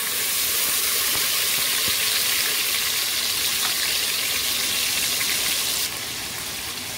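Green peas sizzling in hot oil with cumin seeds in a pot, a steady hiss that softens a little about six seconds in, with a light click or two.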